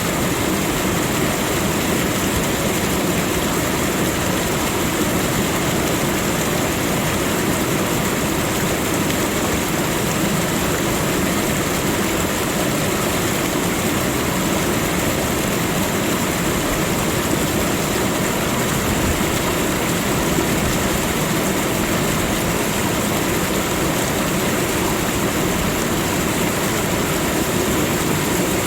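Steady, unchanging rushing of flowing water, with a constant high hiss over it.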